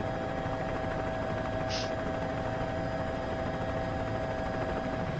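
Steady mechanical drone of constant, unchanging tones over a noisy background, with a brief hiss about two seconds in.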